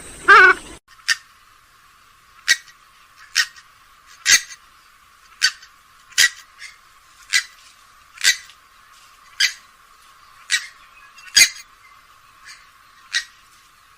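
Grey-headed swamphen calling: a nasal call right at the start, then short, sharp notes repeated about once a second.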